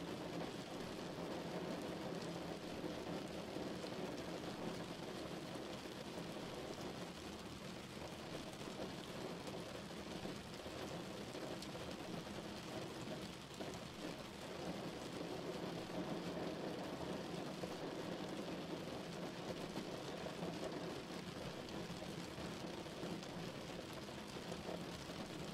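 Steady rain falling outside a window, with drops hitting the glass.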